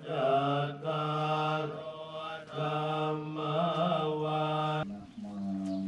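Buddhist monks chanting in unison: long held notes in phrases of a second or two, with short breaks between them, moving to a higher note near the end.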